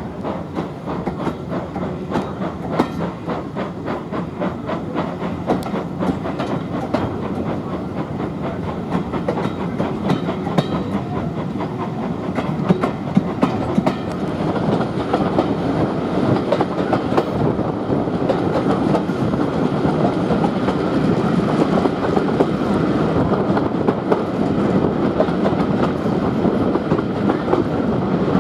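A train running on the rails, its wheels clicking quickly over the track, growing louder about halfway through.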